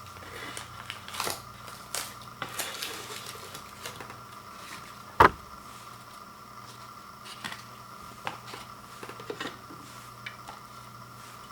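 Scattered light clicks and taps of small objects being handled, with one much louder sharp knock about five seconds in, over a steady faint hum.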